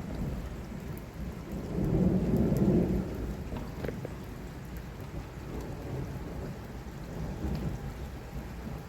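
Thunder rumbling over heavy, steady rain. A louder swell of low rumble builds about two seconds in and dies away, with a fainter one near the end.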